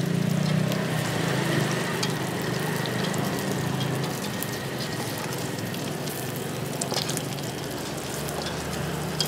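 Thai omelette with surf clam sizzling in hot oil in a wok, with a few light clicks of a metal spatula against the pan. A low hum sits underneath, fading about four seconds in and returning near the end.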